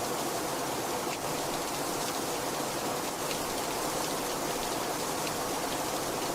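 Steady heavy rain falling, a dense even hiss with scattered drops pattering against a surface.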